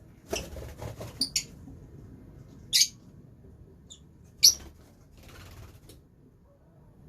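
Lovebirds giving a few short, sharp, high-pitched chirps, the two loudest about three and four and a half seconds in. There is scratchy rustling in the first second and again around five and a half seconds in.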